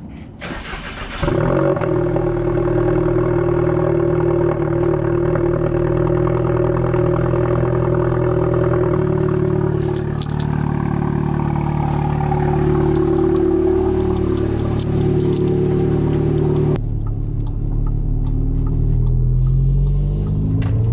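The exhaust of a 2015 Audi A3 with an APR Stage 2 pop-and-bang tune: the engine starts about a second in and settles into a steady fast idle. Its note drops lower after about 17 seconds, then begins to rise as it is revved near the end.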